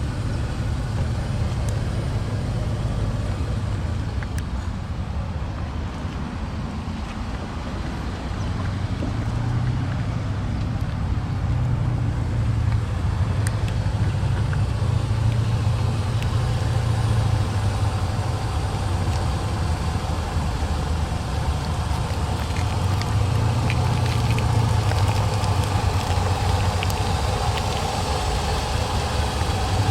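Citroën C-Crosser engine idling, a steady low hum that swells slightly now and then.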